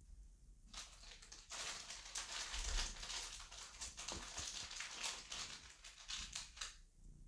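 Rustling and crackling of bedding for about six seconds, made up of many quick scratchy clicks.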